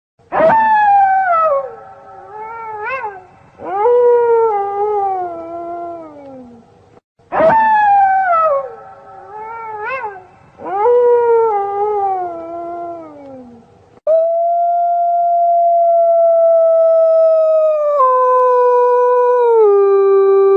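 Wolves howling: long calls that fall in pitch, with a short rising yip between them, and the same run of howls heard twice. Then, about two-thirds of the way in, a long steady howl begins and steps down in pitch twice near the end.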